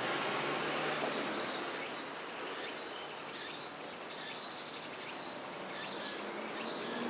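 Insects chirring in a high band that pulses in short patches, over a steady background hiss.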